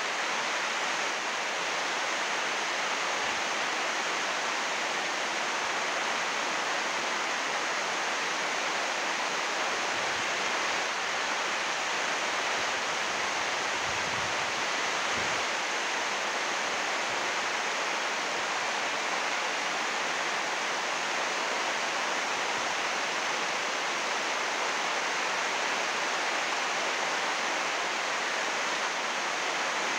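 Heavy rain falling steadily on 80-micron UV greenhouse plastic sheeting, an even, unbroken hiss.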